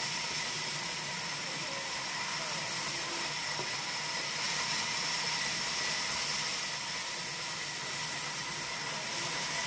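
Steady hiss of running sawmill machinery, with a constant high-pitched whine and no rise or fall in load.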